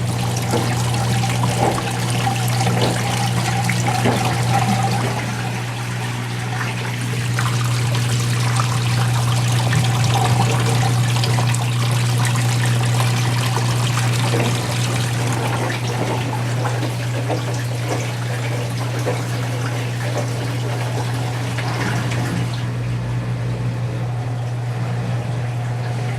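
Water running and trickling inside a Whirlpool Duet Sport front-load washer as it changes over to rinse, over a steady low hum from the machine. The water noise eases about 22 seconds in.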